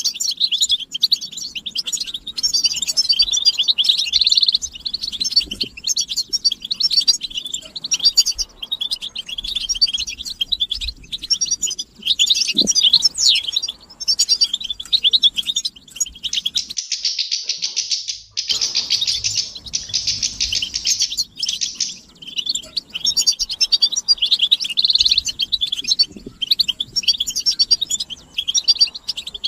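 Several European goldfinches twittering and singing together in a dense, fast run of high chattering notes, with a thicker, unbroken stretch of twitter a little past the middle.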